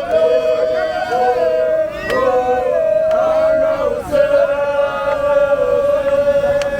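A group of voices chanting together in long held notes that rise and fall.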